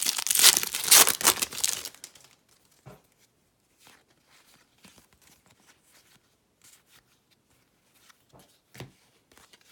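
A baseball card pack's wrapper being torn open and crinkled, loud for about the first two seconds and then stopping. After that, only faint scattered rustles and light clicks of cards being handled.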